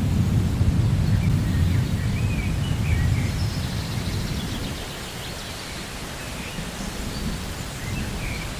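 Steady rain with a low rolling rumble of thunder that fades away over the first half, plus a few faint bird chirps.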